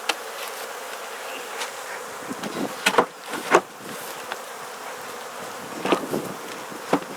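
Honeybees buzzing steadily around an open Langstroth hive, with a few sharp clicks and knocks scattered through.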